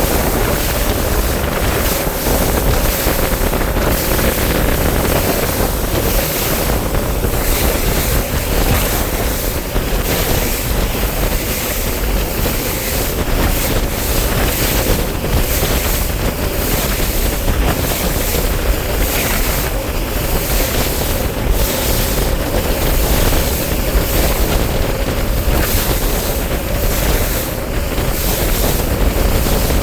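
Wind buffeting the microphone on a bass boat out on open water, a steady loud rush with a faint constant hum underneath.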